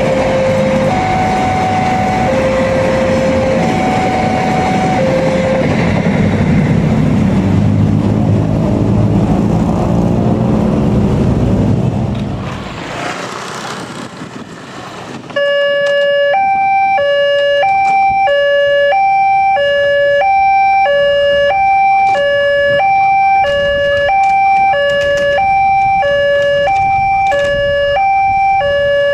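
Railway level-crossing warning alarm: an electronic signal alternating between a low and a high tone. For the first half a train passes with a heavy rumble while the alarm alternates slowly. After a sudden change partway through, another crossing's alarm alternates faster, about one low-high pair a second.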